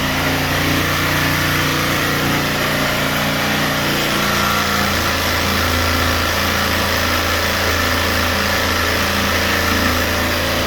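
A small electric motor runs steadily throughout with a steady hum and a rushing noise, its tone changing slightly about four and a half seconds in.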